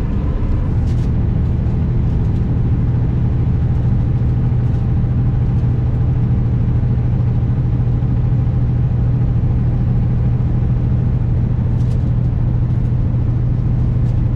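Diesel engine of a 2021 Kenworth W900 semi truck running steadily under way, with a constant low hum and road and wind noise.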